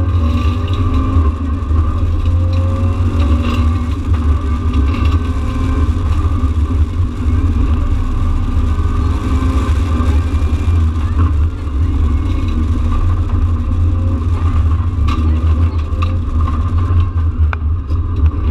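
Subaru Impreza rally car's flat-four engine driven hard at stage speed, its pitch rising and falling as the car accelerates and slows, heard from inside the cabin. A few short knocks sound over it.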